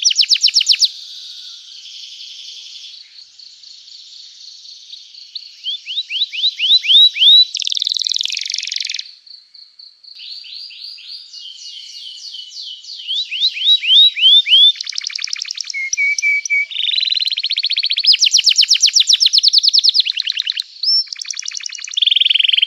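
Domestic canary in full song: long runs of rapid trills and repeated chirping notes with quick sweeping whistles, dipping briefly about nine seconds in before going on.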